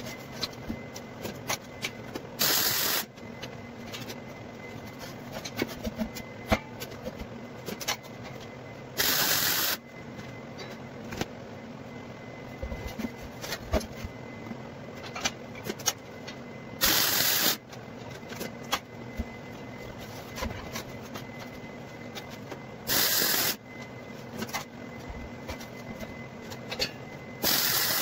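MIG welder laying short tack welds: five brief bursts of hiss, each under a second, a few seconds apart, over a steady background hum with small clicks between.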